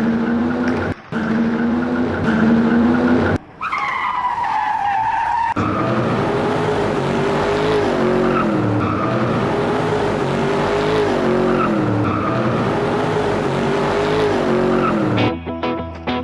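Race car engine sounds. The engine holds a steady note for about three seconds, then a squeal falls in pitch for about two seconds. The engine note then rises and falls over and over, like a car being revved and skidding through corners.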